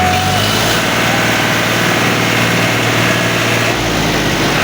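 Tractor engine running steadily, with its low drone shifting slightly once or twice.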